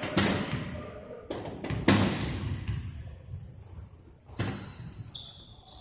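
Basketball game on an indoor court: a few sharp thuds of the ball bouncing, three in the first two seconds and another later on, with short high squeaking tones between them.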